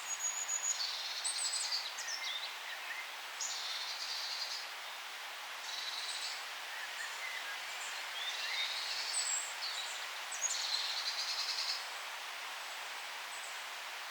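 Songbirds singing in a forest: about five short, rapid trilled phrases roughly two seconds apart, mixed with thin high whistles and a few softer chirps, over a steady background hiss. The singing stops about twelve seconds in.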